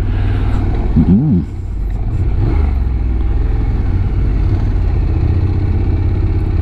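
Honda NC750X motorcycle's parallel-twin engine running steadily as it is ridden, with a short vocal sound about a second in.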